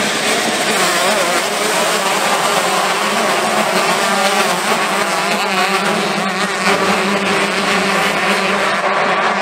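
A pack of 125cc two-stroke motocross bikes racing, many engines revving at once, their pitches rising and falling as the riders work the throttles.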